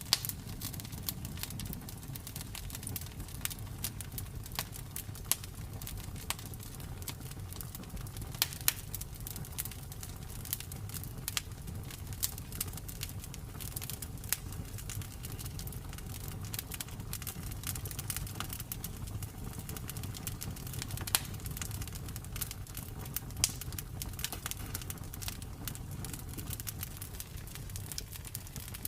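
Campfire burning: irregular crackles and sharp pops of burning wood over a low, steady rumble of the flames.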